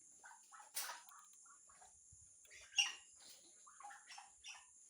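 Piglets in a pen giving faint, short grunts and squeaks, about a dozen scattered through, the loudest about a second in and near the middle.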